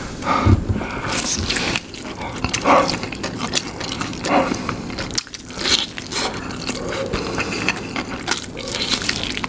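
Close-miked chewing of fried chicken coated in hot sauce, with many irregular clicks and smacks of the mouth.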